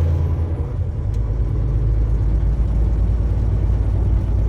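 Semi truck engine and road noise heard from inside the cab while driving, a steady low drone whose pitch drops about a second in.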